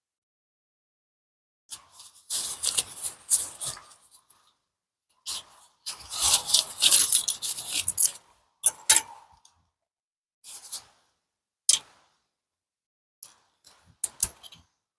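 Spoon scraping and clinking in a cooking pot of chili and rice as it is eaten. The sound comes in several scratchy bursts with sharp clicks, the longest about a second in and again halfway through, then shorter ticks near the end.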